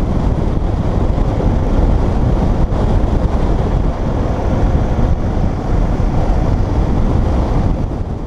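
Wind rushing over the microphone of a motorcycle moving at road speed: a loud, steady rumble of wind and road noise.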